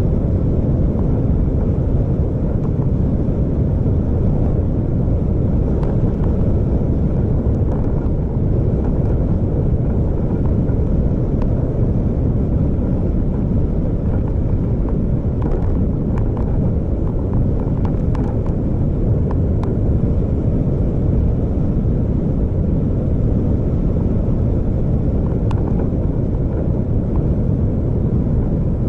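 Steady low road and engine rumble of a vehicle driving, with a few faint clicks and knocks.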